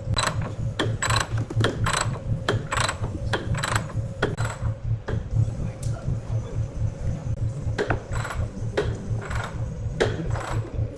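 Sawmill machinery running with a steady low throbbing hum, over which come quick runs of sharp metallic clicks and knocks, a busy cluster at the start and another near the end.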